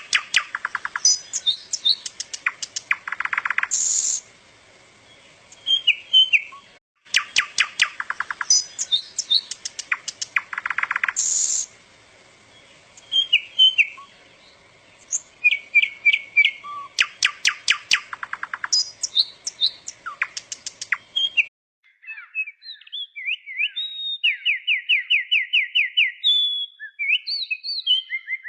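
Small songbird chirping and calling, with fast rattling trills of evenly spaced notes between the chirps. About 21 s in the background hiss drops away and the calls continue as higher, sweeping chirps and a quick run of repeated notes.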